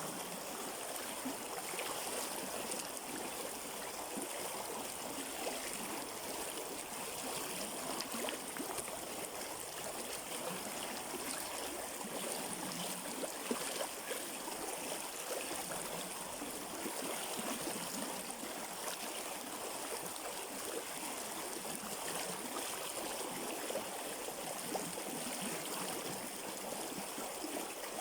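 A river flowing steadily: an even rush of water with small splashes throughout.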